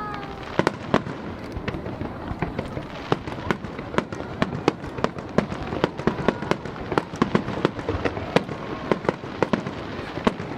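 Fireworks display with shells bursting in quick, irregular succession: many sharp bangs a second over a steady crackle.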